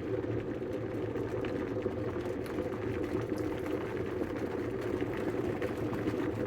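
Kettle heating water, a steady sound of water coming to the boil.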